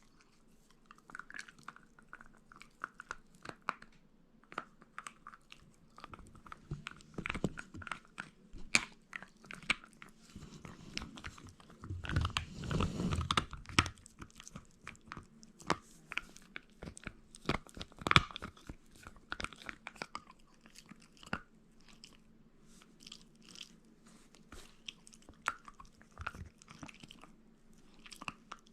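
Shiba Inu dog gnawing and chewing meat, with irregular crunching and biting sounds and a louder, denser spell of crunching about twelve seconds in.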